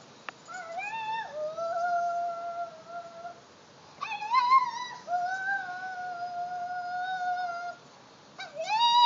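A dog howling in long, steady notes, each rising at the start and then held for a few seconds; three howls, with short pauses between.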